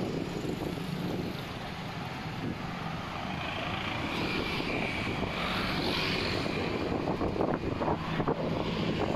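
A steady engine drone with some wind noise; a higher hiss swells in the middle, and a few sharp clicks come near the end.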